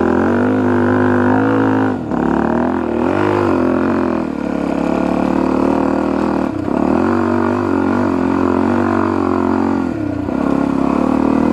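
Suzuki DR-Z400E's single-cylinder four-stroke engine pulling the bike through soft sand. The engine note dips briefly and climbs back several times.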